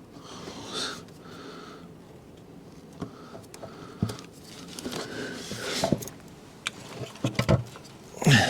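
Irregular clicks, knocks and scraping of hands working parts into place, with sharper knocks about four, six and seven and a half seconds in and a loud clatter at the very end. Soft breathing sounds recur between them.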